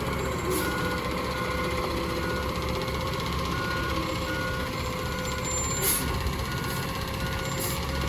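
Side-loader garbage truck's backup alarm beeping about twice a second over the steady rumble of the truck's engine.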